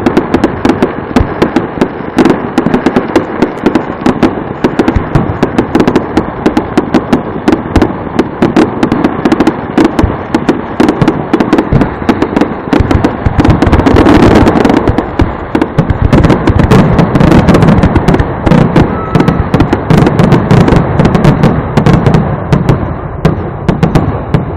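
Fireworks display: a dense, rapid barrage of shells bursting and crackling, many bangs a second with no break, swelling loudest about halfway through and easing off at the very end.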